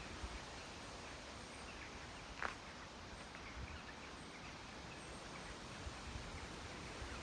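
Wind buffeting the microphone over a steady outdoor hiss, with faint bird calls and one short sharp sound about two and a half seconds in.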